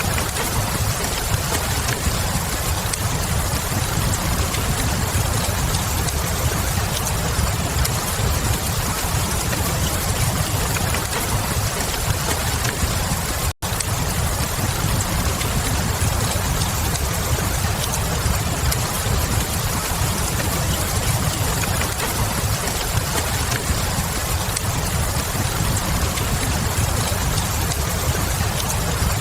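Steady rain mixed with a fireplace crackling, a continuous low rumble under an even hiss with faint small crackles. The sound cuts out for an instant about halfway through.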